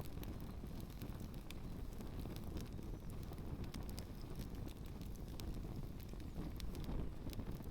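Campfire burning, with scattered sharp crackles and pops over a steady low rumble of wind on the microphone.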